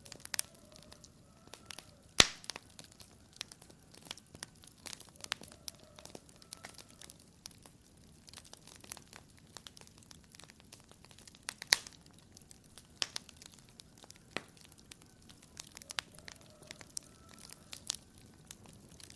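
Wood fire crackling in a fireplace: irregular pops and snaps over a faint hiss, with two sharp pops much louder than the rest, one about two seconds in and one near the middle.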